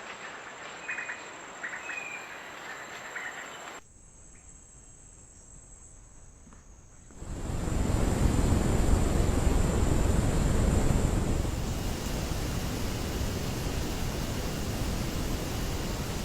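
Outdoor ambience from trail cameras, with a steady hiss and a thin high tone. There are a few short chirps in the first few seconds and a quieter stretch in the middle. From about seven seconds in, a louder steady rushing noise takes over.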